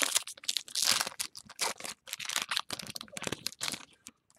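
Trading-card packs being handled: foil wrappers crinkling and tearing and cards rustling, in quick irregular crackles that stop about four seconds in.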